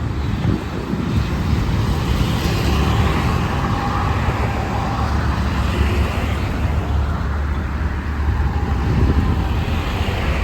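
Road traffic passing close by: a steady low engine rumble with tyre noise that swells and fades as vehicles go past.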